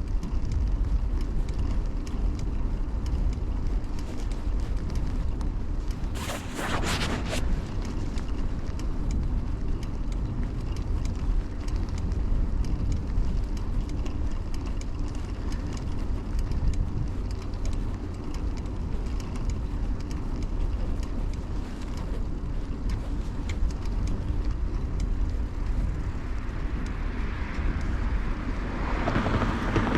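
Riding noise from a bicycle: a steady low rumble of wind on the chest-mounted camera's microphone along with tyre and road noise. A brief hiss comes about six seconds in, and traffic noise swells near the end.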